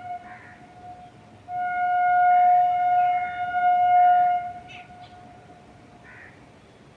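A steady single-pitched tone, like a distant horn, held for about three seconds from a second and a half in, then fading. Birds chirp briefly over it.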